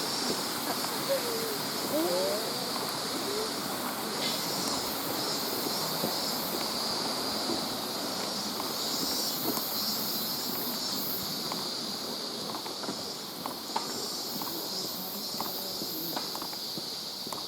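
Steady forest ambience: an even hiss with a constant high-pitched buzz, and a few faint clicks in the second half.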